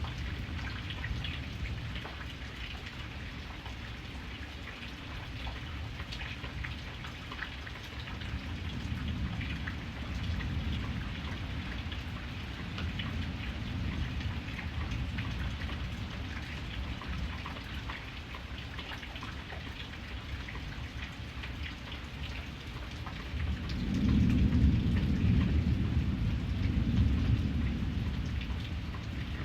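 Steady rain falling, with fine scattered drop ticks, over low rumbling thunder that swells into a louder roll about 24 seconds in.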